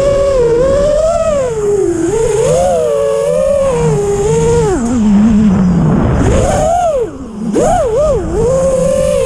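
A 6-inch FPV racing quadcopter's four Hyperlite 2408.5 brushless motors and propellers whining, the pitch rising and falling with every throttle change. The whine sinks low about five seconds in, then swings up and down sharply with a brief throttle cut around seven seconds.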